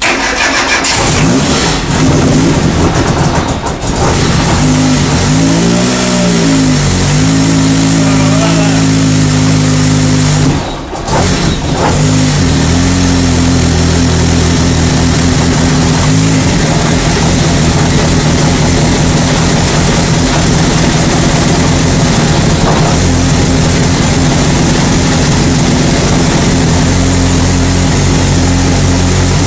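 Engine of a self-built GBS Zero race car running on its first start-up: it is revved up and down about five to seven seconds in, drops out briefly around eleven seconds, then picks up and runs steadily.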